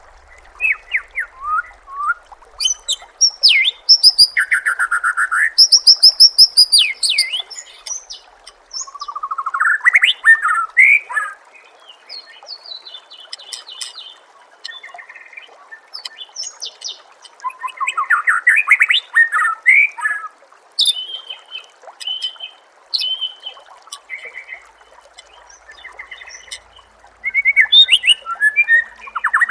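A songbird singing varied, loud phrases: quick runs of repeated high notes, sweeping trills and short chirps, in bouts separated by brief pauses. A steady trickle of running water sounds beneath it.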